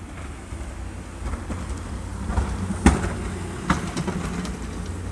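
Snowplow truck passing, a low rumble that builds towards the middle, with two sharp clanks a little under a second apart.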